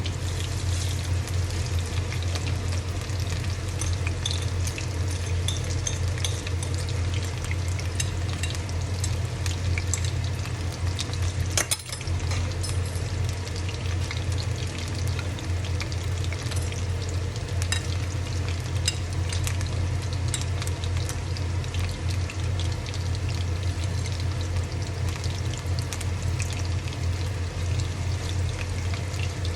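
Fish pakoras deep-frying in hot oil, sizzling steadily with many small crackles and pops, over a steady low hum.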